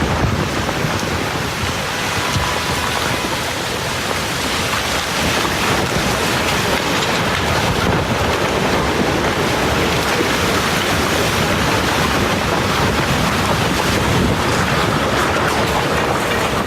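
Steady, loud rushing noise of storm wind and water, with wind buffeting the microphone.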